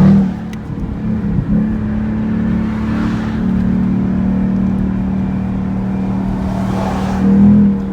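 Performance car's engine heard from the cabin on a test drive in fifth gear: the revs drop sharply right at the start as the driver eases off, then the engine runs at steady cruising revs, swelling briefly near the end.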